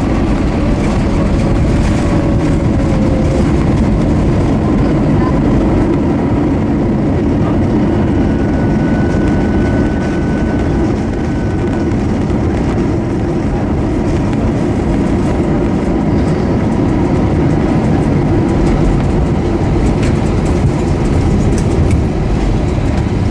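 Steady, loud rumble inside the cabin of an Airbus A320 on its landing run at the end of the flight, with its engines and wheels on the runway.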